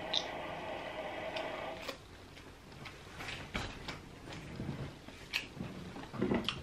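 Eating grilled fish by hand: scattered mouth clicks and lip smacks from chewing. A steady background hum runs under the first two seconds and cuts off suddenly.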